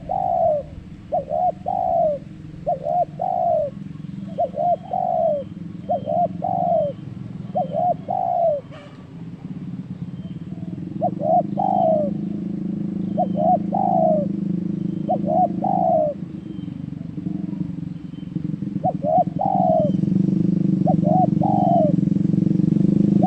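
Zebra dove (perkutut) cooing, short phrases of two or three notes repeated about every one and a half seconds, over a low steady rumble that grows louder about halfway through.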